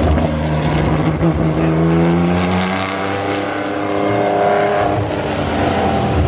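Racing car engines running on the track at high revs, the pitch sliding down over the first few seconds, then climbing again as the engines rev up.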